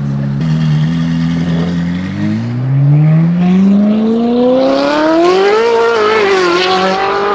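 A car engine running steadily, then its pitch climbing smoothly for about three seconds as it accelerates. It holds high and falls away near the end.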